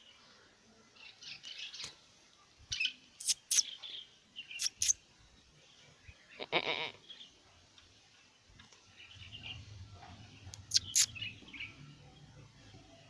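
A newborn goat kid bleats once, a short call about halfway through, among scattered high chirps. Several sharp clicks or knocks, the loudest sounds, come in pairs early and again near the end, and a low hum sets in during the second half.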